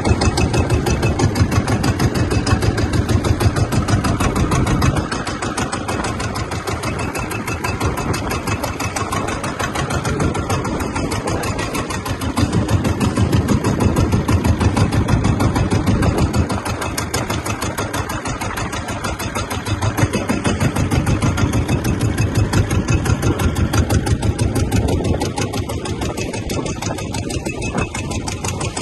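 An engine running steadily with a fast, even pulsing beat. It swells louder and eases back several times.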